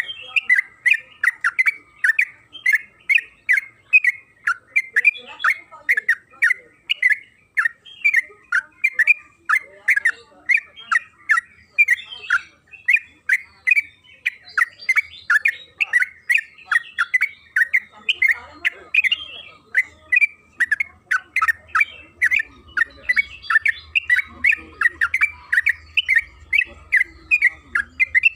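Yellow-vented bulbul (trucukan) calling without pause in a fast, unbroken string of short chattering notes, about three a second.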